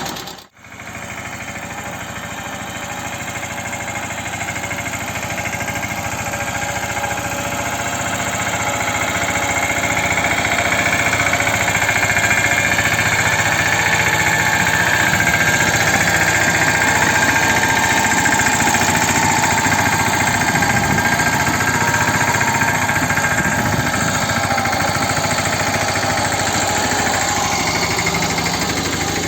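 Mahindra 215 mini tractor's single-cylinder diesel engine running steadily, growing louder over the first ten seconds or so and then holding level.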